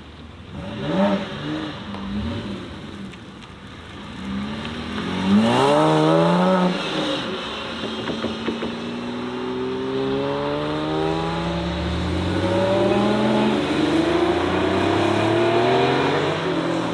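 Modified car engines revving: two short throttle blips, a hard rev that climbs and drops about five seconds in, then a car's engine note slowly rising in pitch and growing louder through the second half.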